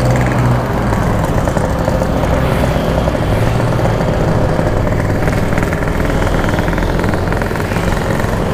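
Yamaha RX-King two-stroke single running while the motorcycle is ridden, under a steady low rumble of wind and road noise on the microphone.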